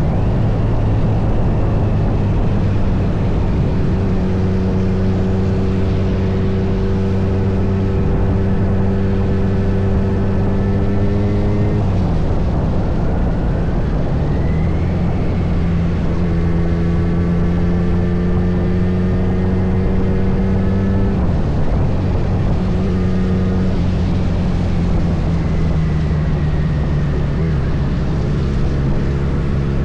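Kawasaki Z900's inline-four engine running steadily under a ride, its pitch holding or creeping up, then dropping sharply about 12 and 21 seconds in as the revs change, over a steady rushing noise.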